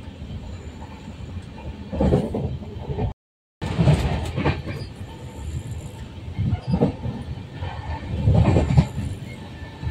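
Interior of a moving Indian Railways sleeper coach: a steady low running rumble with loud, irregular knocks and rattles from the wheels and coach body. The sound drops out completely for about half a second just after three seconds in.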